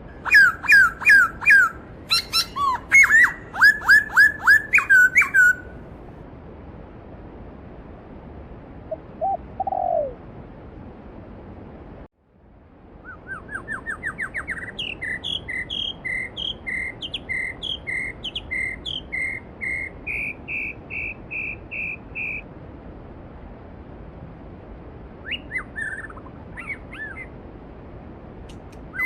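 Songbirds singing over the steady rush of a mountain stream: quick runs of short falling notes, then a long series of evenly repeated notes that climbs in pitch and levels off. The sound drops out for an instant about twelve seconds in.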